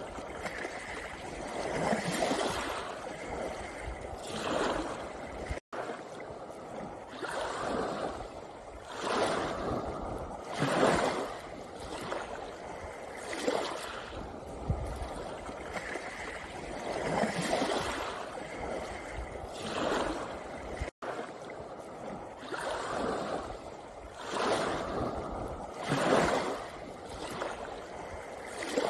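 Small sea waves washing over a pebble beach, surging and falling back every second or two. The sound cuts out for an instant twice.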